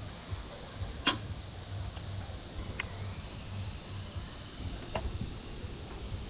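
Three sharp, light clicks or knocks, the loudest about a second in, over a low steady rumble.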